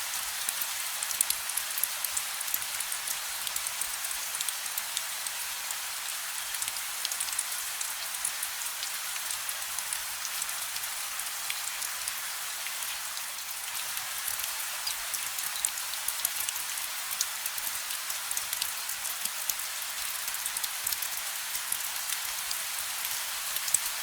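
Steady rain falling: an even hiss with many small drop ticks and no thunder.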